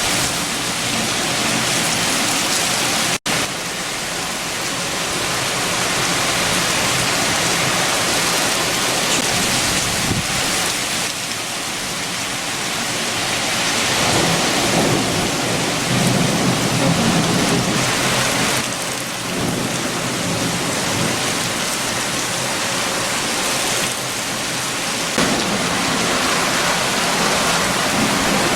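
Heavy rain with strong wind, a steady rushing hiss, with a low rumble of thunder swelling about halfway through. The sound cuts out for an instant about three seconds in.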